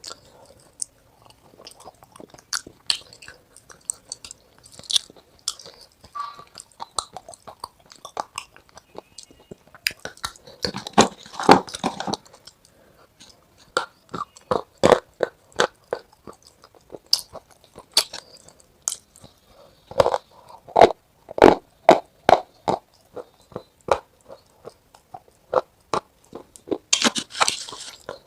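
Close-up crunching and chewing of something hard and brittle: sharp, irregular crunches, several a second in bunches, with short pauses between mouthfuls.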